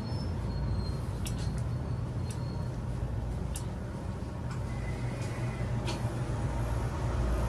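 Electric train running with a steady low hum, and scattered light clinks and rattles over it.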